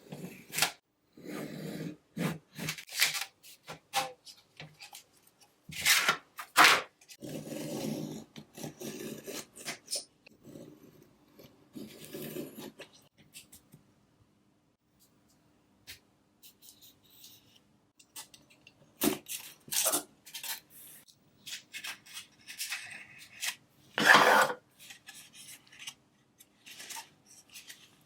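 Hand work on small parts: irregular scraping, rubbing and clicking strokes, with a longer loud scrape about a third of the way in and another near the end.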